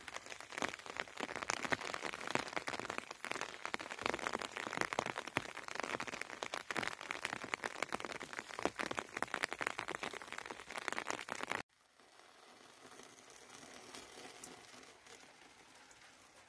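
Rain falling, a dense patter of drops ticking close by; it cuts off suddenly about twelve seconds in.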